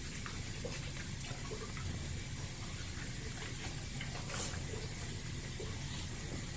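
Toothbrush scrubbing a dog's teeth, a steady wet scrubbing over a low background hum.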